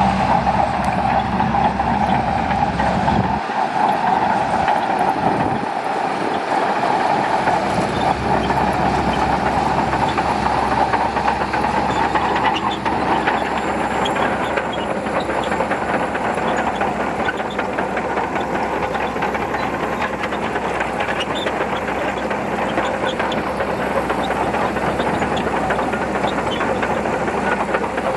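Shantui crawler bulldozer working: its engine runs steadily under the clatter of its steel tracks, a continuous mechanical din.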